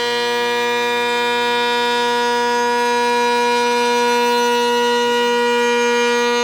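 High-speed router spindle running steadily with no load change, giving a constant high-pitched whine.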